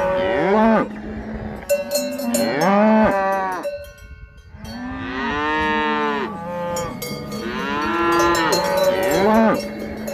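Cows mooing, several long drawn-out calls that rise and fall and overlap, with cowbells clinking and ringing between them.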